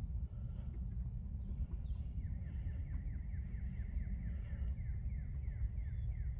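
A wild songbird calling in the background: a fast series of short, down-slurred whistled notes, about three a second, starting about two seconds in and running for some four seconds. Under it a steady low rumble, as of wind on the microphone.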